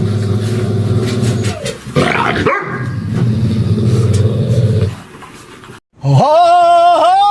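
A dog growling steadily and low, then, after a brief break, starting a long wavering howl.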